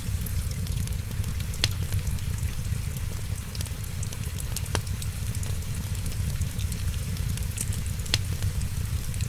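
Wood fire crackling, with sharp pops about one and a half, five and eight seconds in, over a steady low rumble and a background patter of rain.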